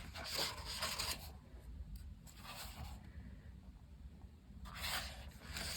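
Paper pages of a colouring book being turned, a soft rustle about three times.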